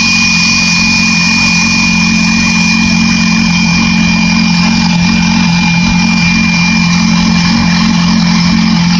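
2008 Yamaha R6 600 cc inline-four engine idling steadily in neutral, with a thin, steady high whine over it.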